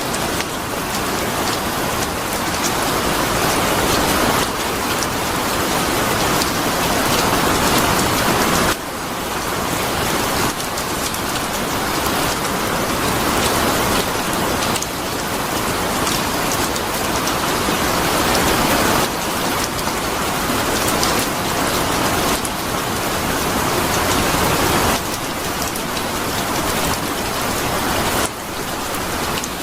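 Steady heavy rain falling on a surface, a dense even patter. Its level shifts abruptly every few seconds, as at the seams of a looped or spliced recording.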